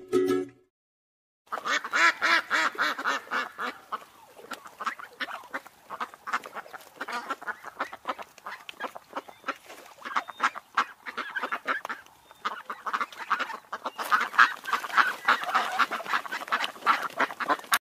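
Mallard ducks quacking: rapid runs of short calls starting about a second and a half in, busiest at first and again near the end.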